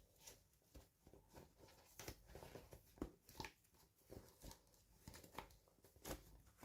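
Faint, irregular small clicks and brief rustles of toy packaging being handled and opened.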